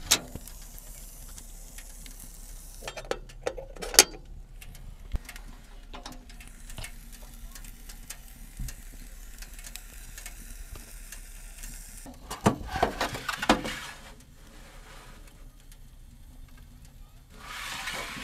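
Small wood fire crackling and hissing in a homemade mini stove-oven, with sharp pops and a cluster of clattering knocks about twelve seconds in.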